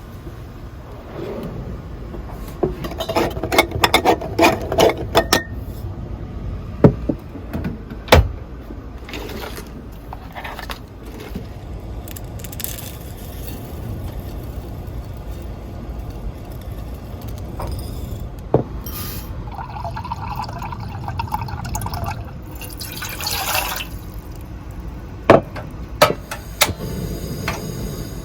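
Strong wind buffeting a camper van, heard from inside as a steady low rumble. Over it are a quick run of small clicks, several sharp knocks, and a brief hiss, like things being handled in the cabin.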